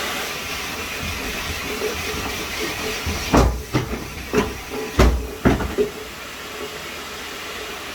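Hydrojet shower head spraying water at full pressure, a steady hiss. About five sharp knocks come in the middle, the loudest about three and a half and five seconds in.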